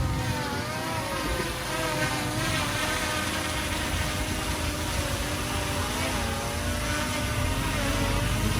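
Heavy-equipment diesel engine running steadily under work, its note rising and falling slightly.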